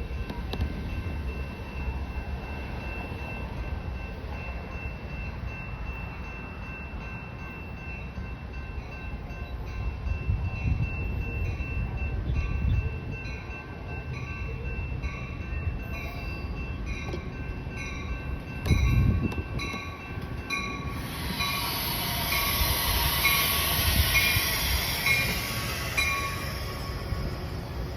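Railroad grade-crossing bells ringing in a steady rhythmic ding, with a train running past on the rails; about three quarters in, a loud hissing rush of the passing train joins the bells.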